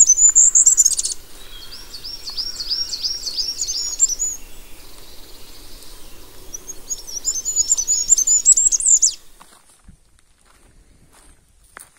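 A songbird singing in quick bursts of high, repeated chirping notes, three bouts in all, before falling silent about nine seconds in.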